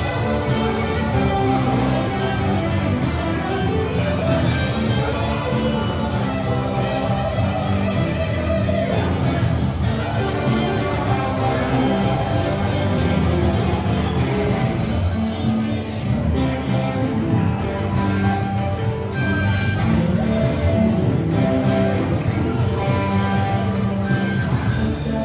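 Live band playing rock music with a steady beat.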